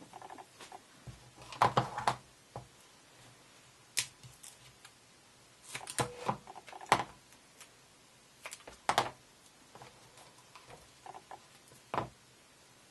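Hands handling small cut card-stock pieces and tape on a work surface: scattered light taps, clicks and rustles, the sharpest about two, seven and nine seconds in.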